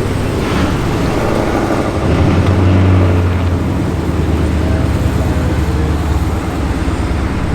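Car engine running with a low, steady drone that comes up about two seconds in and eases off near the end.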